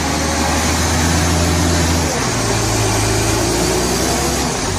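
A vehicle engine running steadily under a rushing noise, its note dropping to a different pitch about two seconds in.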